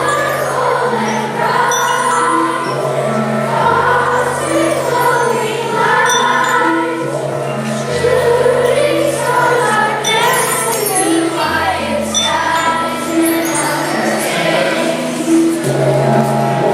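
A choir singing with instrumental accompaniment, over a bass line that changes note every couple of seconds.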